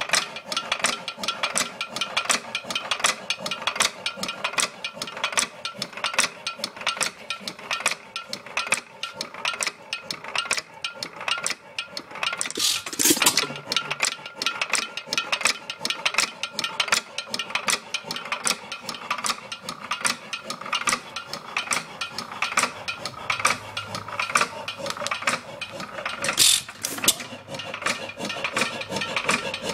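Early Bates and Edmonds Bull Dog 2-1/2 HP hit-and-miss engine running, with a steady rapid mechanical clatter and louder bursts about 13 seconds in and again near the end.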